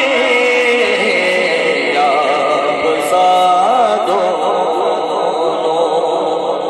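Male voice singing a naat in long, drawn-out notes that waver up and down in pitch.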